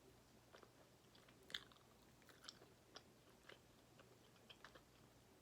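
Faint close-up chewing of a chicken snack: soft, irregular mouth clicks, the loudest about one and a half seconds in.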